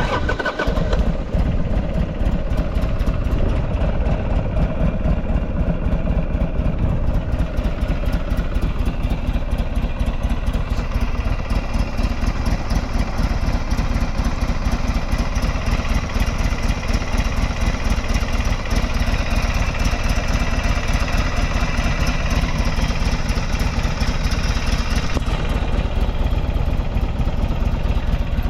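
Buell XB12 Lightning's air-cooled V-twin engine firing on the first try from cold and settling straight into a steady idle, with no abnormal noises.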